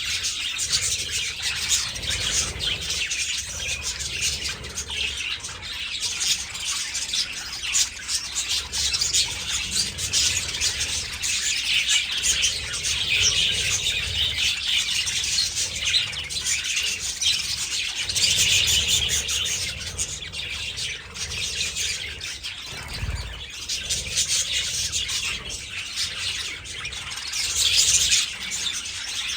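A flock of budgerigars chattering and chirping continuously, many birds at once in a dense overlapping warble.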